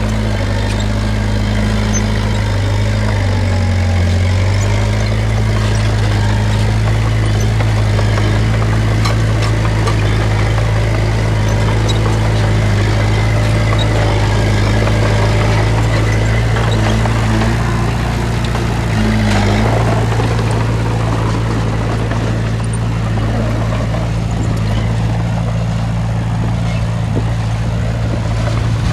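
Heavy earthmoving machine's diesel engine running steadily under load, with a low, even hum that briefly sags twice, once about four seconds in and again about two-thirds of the way through.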